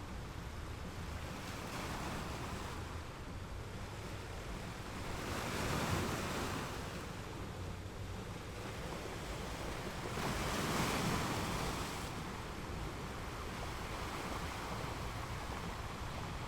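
Ocean waves on the shore: a steady wash of surf with two waves swelling and breaking, about six and eleven seconds in, under a low rumble.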